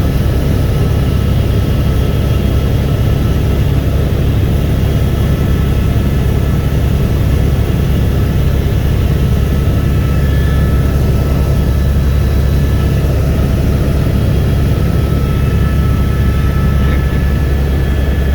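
Helicopter in flight, heard on board: a loud, steady drone of rotor and engine with a faint high whine above it.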